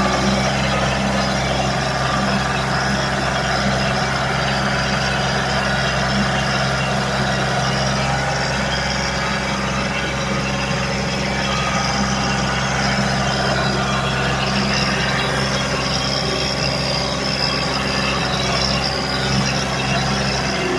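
Ford 1720 compact tractor's diesel engine running at a steady speed while the tractor is driven in four-wheel drive.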